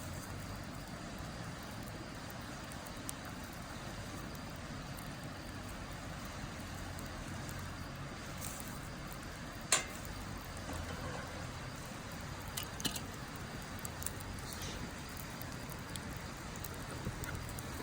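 Firewood burning in an open fire pit, with a steady background rush and scattered crackles; one sharp pop about ten seconds in, and a cluster of smaller crackles near the end.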